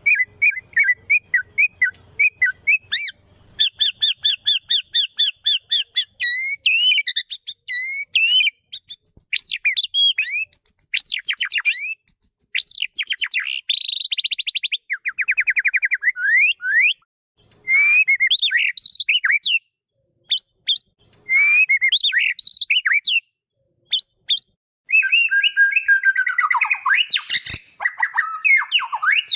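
White-rumped shama (murai batu) singing: a fast run of varied whistled phrases, quick repeated trills and sweeping notes, broken by short pauses, turning to harsher, rasping notes near the end.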